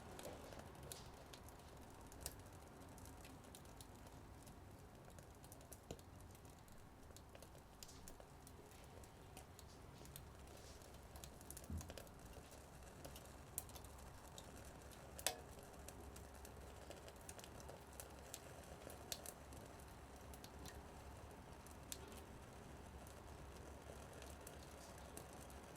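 Small wood fire crackling faintly in a mini wood stove: sparse, irregular sharp ticks and pops, one louder pop about halfway through.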